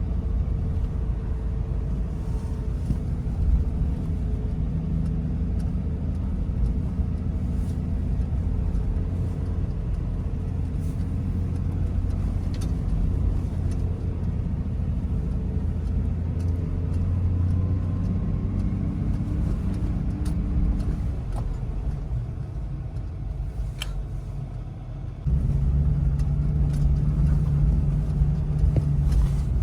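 Toyota Land Cruiser 70 engine and road noise while driving, a steady low rumble. Near the end it eases off and quietens for a few seconds, then suddenly becomes louder again as the engine pulls harder.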